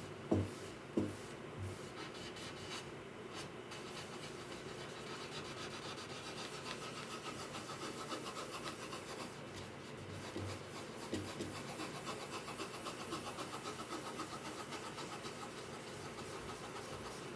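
Hand rubbing on wood, as in sanding or scraping during guitar repair, in quick, even back-and-forth strokes. A few light knocks come near the start.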